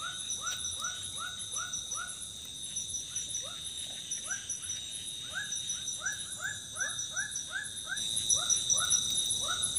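A long run of short, repeated animal calls, about three a second, over a steady high insect drone.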